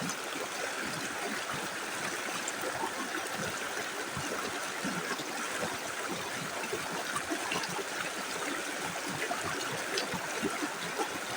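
Small river running steadily over stones, a continuous rushing with small splashes and trickles through it.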